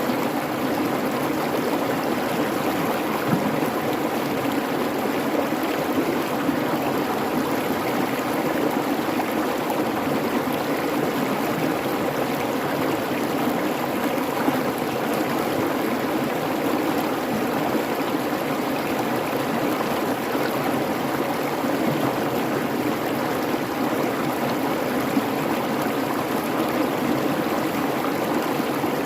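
Babbling creek: water running steadily over rocks in an even rush, with small splashes scattered through it.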